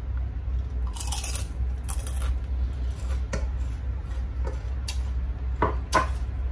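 Crispy fried chicken-skin chicharon crunching as it is chewed, in two bursts about a second apart. Then come a few light clicks and, near the end, two sharper clinks of a utensil against a plate, over a steady low hum.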